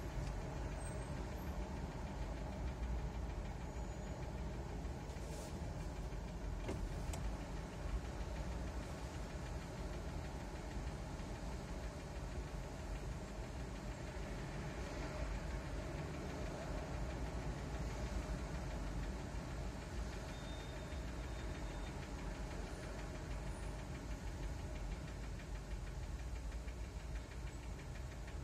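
Car engine idling in stopped traffic, a steady low rumble heard from inside the cabin.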